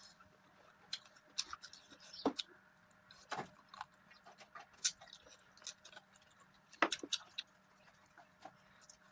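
Close-miked eating sounds of a meal of mutton curry and rice: chewing with irregular sharp mouth clicks and smacks, a few louder ones about 2, 3.5, 5 and 7 seconds in.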